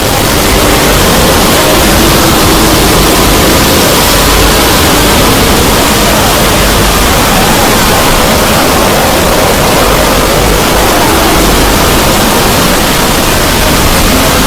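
A cartoon soundtrack sped up so far that speech and music have smeared into a loud, steady hiss-like noise that fills every pitch.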